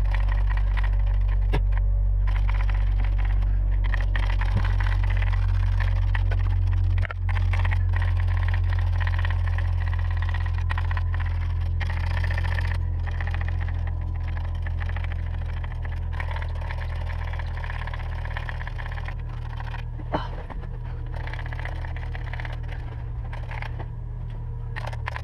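A steady low, engine-like hum runs throughout, easing somewhat in the second half, with faint clicks and scrapes of hand work over it.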